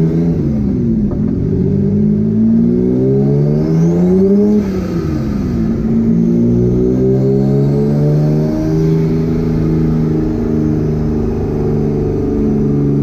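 Twin-engine, twin-turbo Mazda MX3 accelerating hard, heard from inside the cabin. The engine note climbs, drops at a gear shift about half a second in, climbs again, and drops at a second shift about four and a half seconds in. After that it climbs more slowly and levels off into a steady drone.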